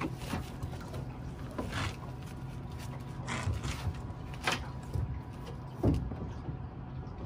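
Boat motor running steadily at trolling speed, with a few scattered knocks and rattles of fishing gear being handled.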